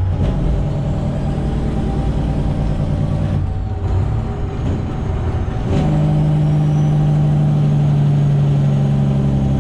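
Freightliner Classic XL semi truck's diesel engine running at low speed. Its note dips about three and a half seconds in, then comes back steadier and louder from about six seconds in.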